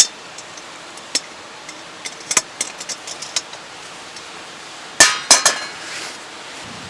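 Hard objects clinking and knocking: scattered sharp clicks, then a quick run of louder knocks about five seconds in, over a steady background hiss.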